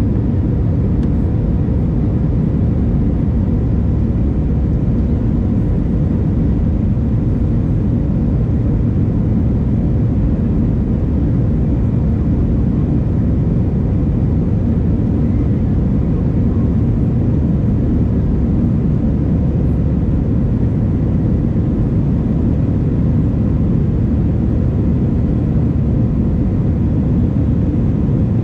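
Jet airliner cabin noise: a steady, deep rumble of the engines and airflow, even in level throughout.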